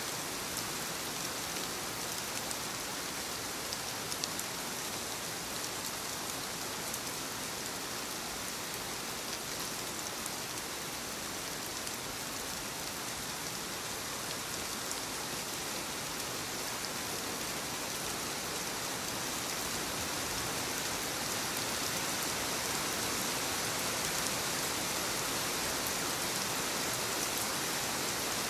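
Soft rain falling steadily on leaves: an even hiss with scattered small drop ticks, slightly louder in the second half.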